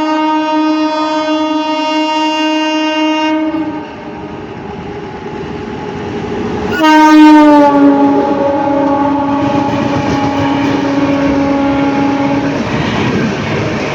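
Amrit Bharat Express train sounding its horn: one steady blast for about three and a half seconds, then the train's running noise builds and a second, louder blast starts about seven seconds in. Its pitch dips slightly at the start and it holds for about five seconds over the clatter of wheels on the rails.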